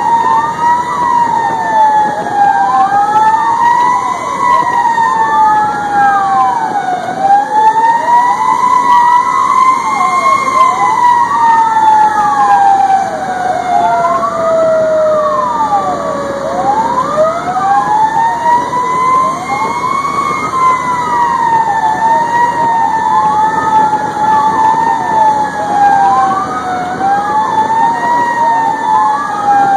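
Fire engine responding with sirens running: a slow wail climbing and falling over several seconds, overlaid by a second, faster siren sweeping up and down about once a second, over steady engine and road noise.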